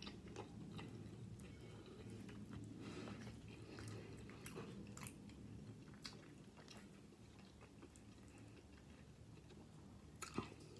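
Faint close-up chewing of a burrito of rice, chicken and black beans, with scattered soft mouth clicks and a couple of sharper clicks near the end.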